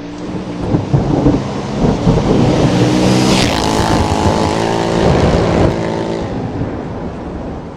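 Motorcycle engines running and revving, their pitch stepping and rising over wind and road noise, with a brief rushing sweep about three and a half seconds in.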